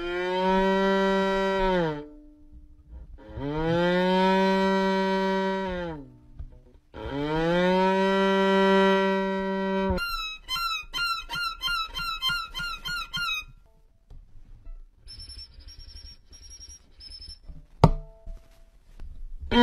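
A person imitating animal calls with the voice: three long, cow-like moos of about two seconds each, each dropping in pitch at its end, then a fast run of high chirps at about eight a second and a few short high peeps.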